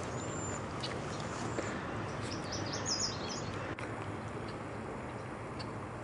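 Songbirds chirping over a steady outdoor background hiss: a thin high whistle at the start, then a quick cluster of high chirps about two and a half seconds in.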